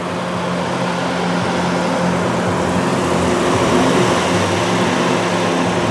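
A motor vehicle's engine running close by, a steady low hum that grows a little louder toward the middle.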